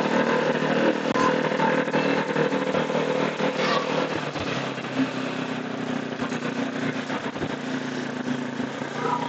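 Motorcycle engine running steadily while riding, under a constant haze of road and traffic noise, easing off slightly in loudness over the seconds.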